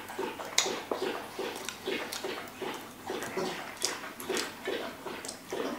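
Close-up chewing of a slice of pizza: wet smacking and clicking mouth sounds, about two to three chews a second.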